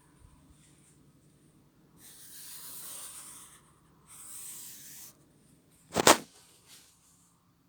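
Two brief hissing scrapes, then a sharp knock about six seconds in, the loudest sound, followed by a faint second tap.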